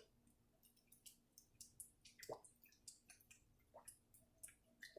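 Near silence with faint, scattered wet clicks and smacks from the mouth and lips just after eating.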